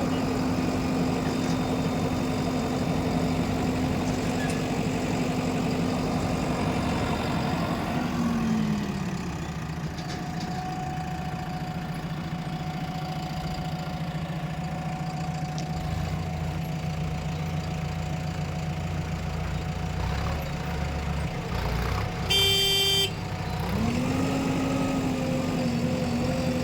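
Diesel engine of a JCB-type heavy machine running steadily, its revs dropping about eight seconds in and rising again near the end. A single short horn honk sounds about 22 seconds in.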